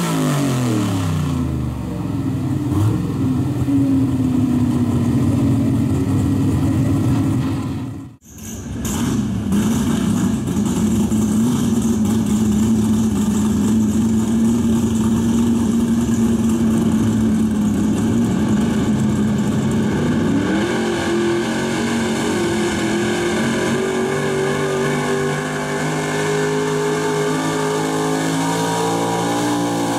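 Super Street Gas 4x4 pulling truck's gasoline engine running at high revs under load as it pulls the sled, its note holding steady. The pitch falls at the very start, the sound cuts out briefly about eight seconds in, and the revs climb again about two-thirds of the way through.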